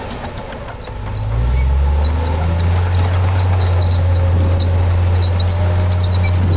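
Heavy diesel engine of earthmoving machinery running with a steady low drone. It dips right at the start and comes back in at a lower note about a second and a half in.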